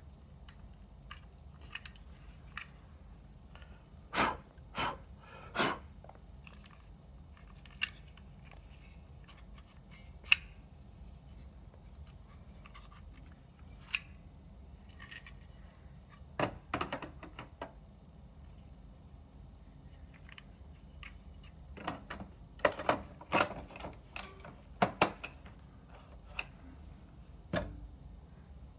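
Scattered clicks, taps and light scrapes of small parts and tools being handled on a projector under repair, coming in short groups, a few sharp and loud, with quiet gaps between.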